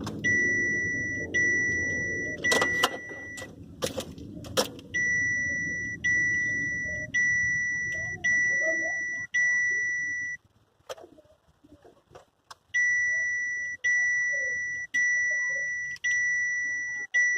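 Chevrolet Captiva's warning chime: a steady high beep repeating about once a second, stopping for about two seconds near the middle and then starting again. Underneath, a low rumble from the car fades away about ten seconds in, and several sharp clicks come in the first five seconds.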